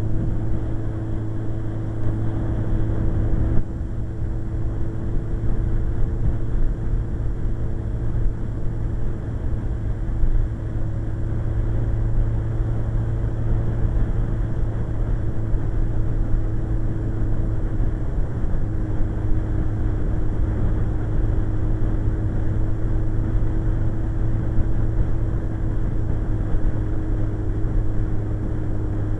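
Suzuki GSX-R1100 motorcycle's inline-four engine running at a steady cruise, holding one even pitch, with low wind rumble over it.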